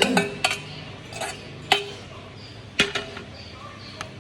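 Metal kitchen utensils clinking against dishes and cookware, about eight sharp separate clinks, each ringing briefly.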